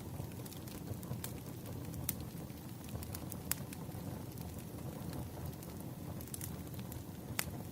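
Wood fire crackling: a steady low rumble of burning logs with irregular sharp pops, a handful over several seconds.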